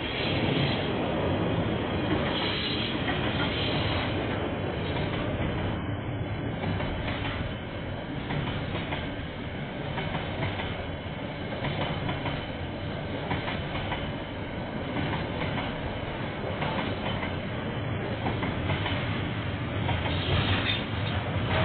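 Freight train of container wagons rolling past at steady speed, its wheels clacking over the rail joints, heard through a security camera's microphone with the highs cut off.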